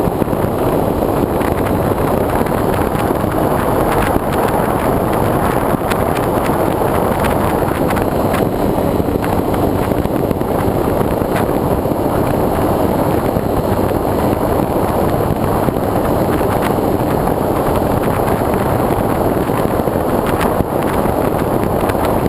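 Airflow rushing over the microphone of a GoPro mounted on the wing of a foam RC plane in flight: a steady, loud wind rush with a faint high whine above it.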